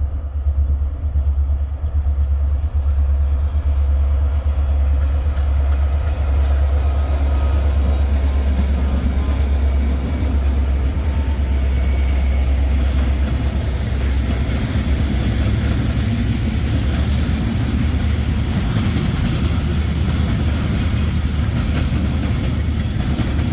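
Wheeling & Lake Erie freight train cars rolling past at the crossing: a steady low rumble of wheels on rail, with a thin, high wheel squeal through the middle and a few faint clacks.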